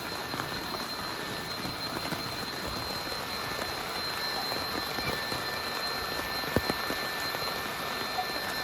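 Heavy rain falling steadily, with many separate drops striking close by and one louder drop hit about six and a half seconds in.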